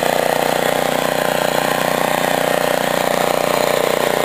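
Cub Cadet snowblower's gasoline engine running steadily while clearing snow.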